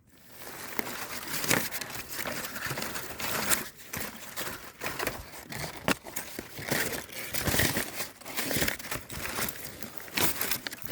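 Dry debris crackling and rustling as it is trampled, with frequent irregular sharp crunches.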